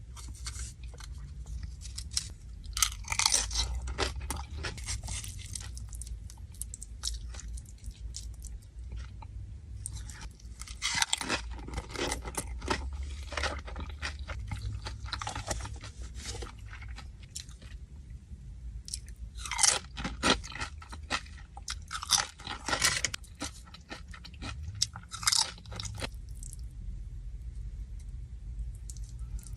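Close-up crunchy chewing of Doritos tortilla chips, in bouts of loud crackly crunching with quieter pauses between them. A steady low hum runs underneath.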